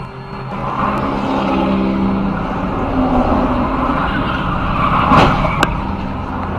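A car driving, with steady engine and road noise. About five seconds in comes a short louder rush, then a sharp click.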